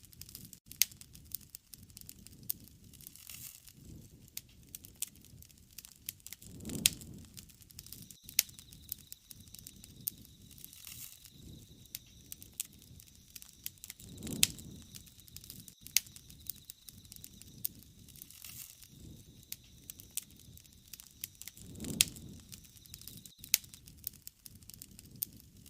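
Wood fire crackling, with frequent sharp pops of burning wood. A low rush of flame swells up three times at even intervals.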